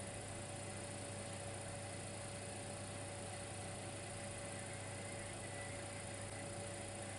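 Dimplex electric fireplace running: a steady electrical hum with an even hiss, plus a faint constant whine.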